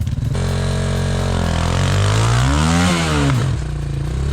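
Off-road motorcycle engine revving: the pitch climbs steadily to a peak about three seconds in, then drops back toward idle.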